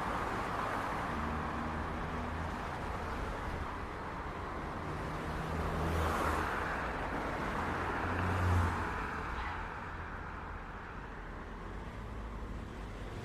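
City street traffic: a steady wash of car engines and tyre noise, with vehicles passing close by about six seconds in and again, loudest, around eight and a half seconds in.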